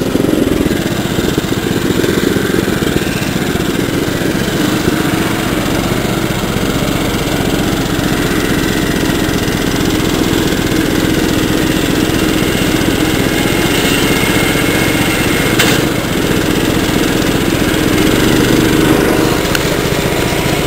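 Small garden-tractor engine running steadily under load while it pulls a second tractor and a trailer at a slow crawl.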